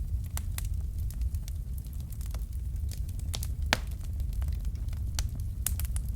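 Wood fire crackling steadily, with irregular sharp pops and snaps over a low rumble of the flames; one pop stands out a little before four seconds in.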